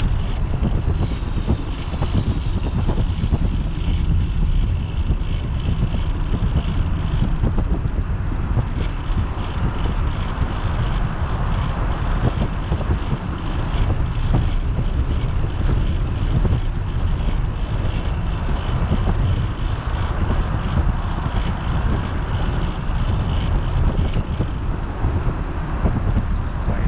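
Wind buffeting the microphone of a camera on a moving bicycle, a steady low rumble of rushing air.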